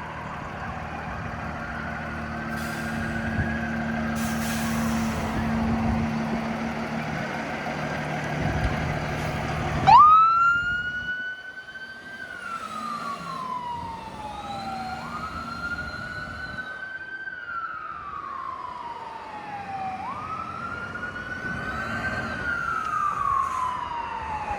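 Fire engine responding: its engine runs with a faint siren and short hisses in the background. About ten seconds in, a loud siren starts up abruptly and wails in slow cycles, each rising quickly and then falling away over about five seconds.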